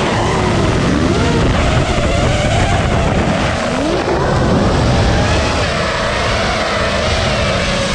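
Motocross bike engine running on the track, its pitch wavering up and down as the throttle changes, over heavy low rumbling wind buffeting on the microphone.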